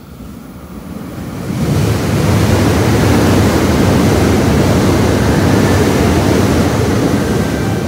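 Loud rushing noise of a train running into the station along the platform, building over about two seconds, holding steady, then easing off near the end.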